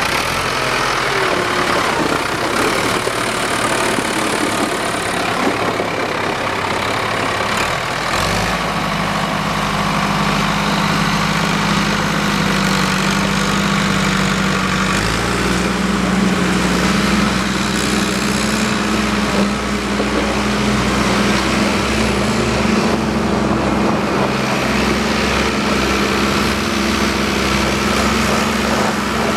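Cummins BT4 four-cylinder turbo-diesel of a four-wheel-drive forklift running steadily, its engine note stepping up about 8 seconds in and again about 15 seconds in.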